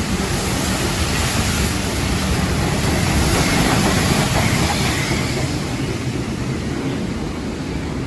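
A train running past, its rumble and rail noise swelling to a peak about halfway and easing off.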